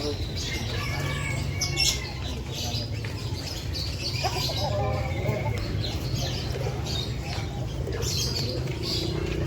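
Many birds chirping and calling at once, pigeons cooing and flapping their wings, over a steady low background rumble.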